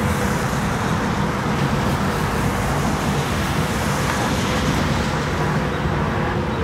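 Steady vehicle and road noise, an even low rumble with no sudden events.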